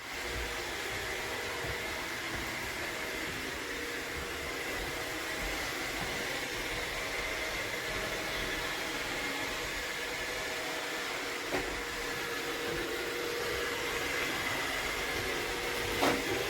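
iRobot Roomba 692 robot vacuum running: a steady whirring hiss with a faint high whine, broken by two small knocks, the louder one near the end.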